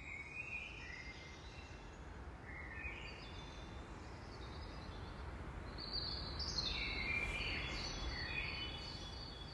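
Birds singing over a low, steady rumble; the song grows louder and busier about six seconds in.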